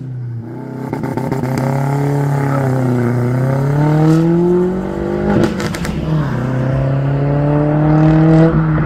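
A car engine accelerating past. Its pitch dips, then climbs, breaks off with a gearchange and a short crackle about five and a half seconds in, and climbs again.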